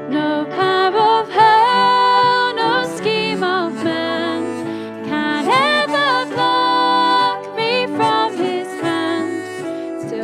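Church worship band music: a wavering melody line held with vibrato over sustained keyboard chords.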